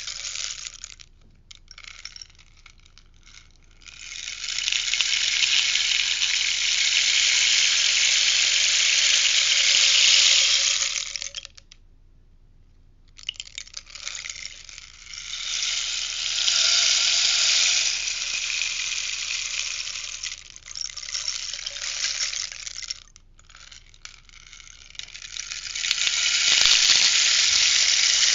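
Rainstick being tipped again and again, its beads pouring through in a hiss of tiny clicks. Three long runs of several seconds each are broken by short pauses as it is turned over; the first builds up from a few scattered rattles.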